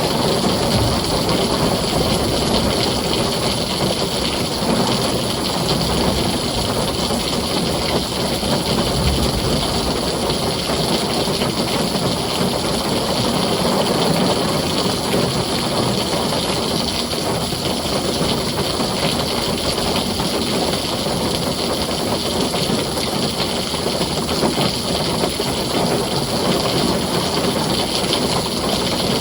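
Heavy rain drumming steadily on a tin roof, a dense, even hiss with no break.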